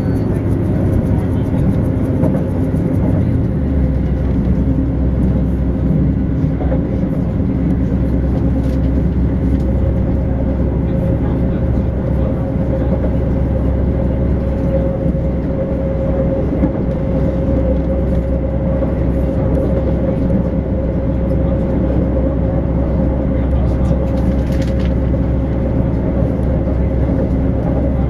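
Passenger train running at speed, heard from inside the carriage: a steady rumble with a faint steady hum.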